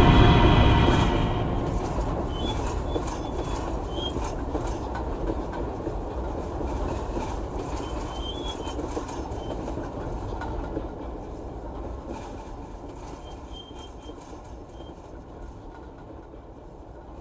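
A train running past with a rumble and clattering wheels on the rails, fading steadily as it moves away.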